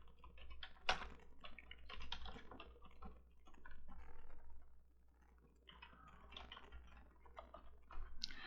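Typing on a computer keyboard: irregular runs of quick keystrokes with a sharper click about a second in and a short pause around the middle.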